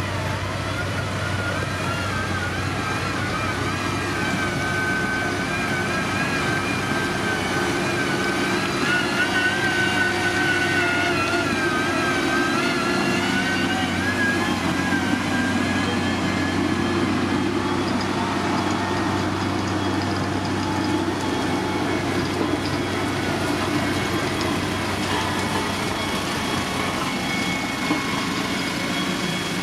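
Diesel engine of heavy road-construction machinery running steadily under load, with a higher whine that wavers in pitch over the steady low drone.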